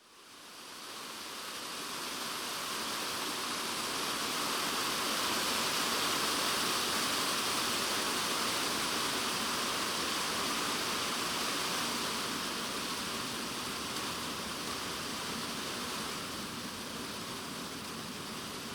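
Heavy typhoon rain beating on a polycarbonate shed roof, heard from inside the shed as a dense, even hiss. It fades in at the start and eases slightly in the last few seconds.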